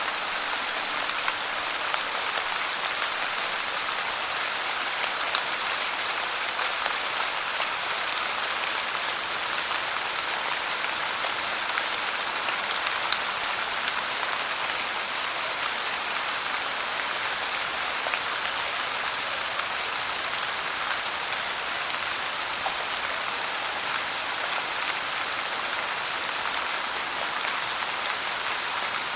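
Steady rain falling, an even dense hiss with scattered faint drop ticks.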